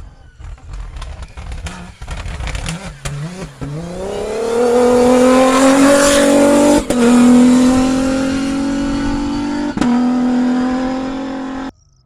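Rally raid car's engine accelerating hard: after a few seconds of clicks and low rumble, the engine note rises in pitch and is held at high revs with two brief dips like gear changes, then cuts off suddenly near the end.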